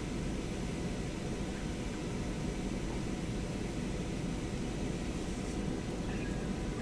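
Steady low hum of a van's engine idling, heard from inside its cabin.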